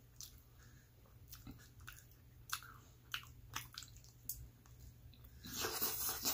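A person biting and chewing frozen pepperoni pizza close to the microphone: soft wet chews with small crunches and mouth clicks, then a longer, louder rush of noise near the end.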